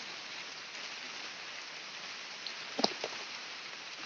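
Steady rain falling, an even hiss, with one sharp knock a little under three seconds in.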